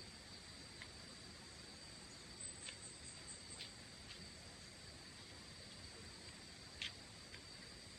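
Faint steady high-pitched insect drone, with a few short chirps about three seconds in and again near the end.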